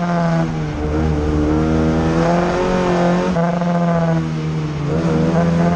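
Fiat 600 folkrace car's engine at racing revs, heard from inside the cabin, its pitch climbing and falling back several times.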